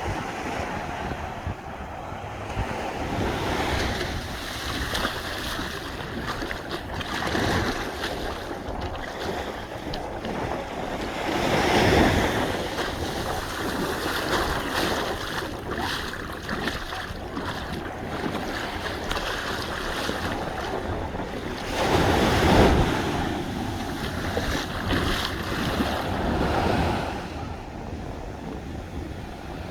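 Ocean waves washing onto a beach, with wind buffeting the microphone. Two waves break louder than the rest, about twelve and twenty-two seconds in.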